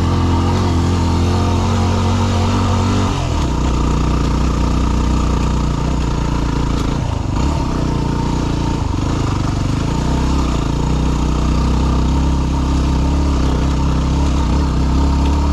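Yamaha WR250R's single-cylinder four-stroke engine pulling the bike up a trail climb. Its note drops about three seconds in and wavers between about seven and nine seconds as the throttle changes, then holds steady.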